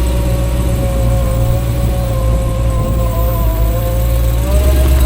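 Car engine running with a steady deep rumble and a faint wavering whine above it, the whine rising slightly near the end.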